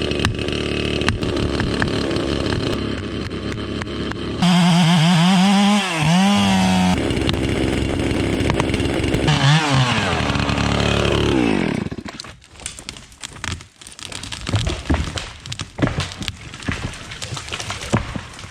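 Chainsaw running, then revved hard twice, its pitch wavering and falling as it cuts and is let off. About twelve seconds in the saw stops and a run of cracks and crashes follows: the cut tree coming down.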